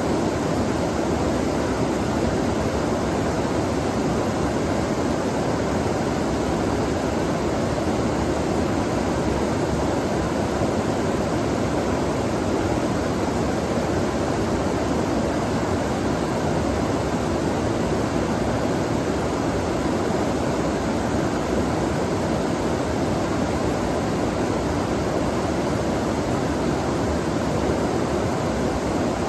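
Steady rush of flowing water from a stream, an even sound without breaks.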